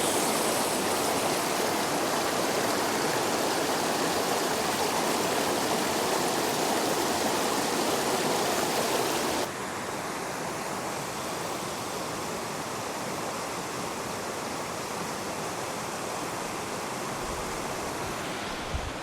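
Mountain stream rushing over a small waterfall, a steady even rush of water that drops suddenly to a lower level about halfway through.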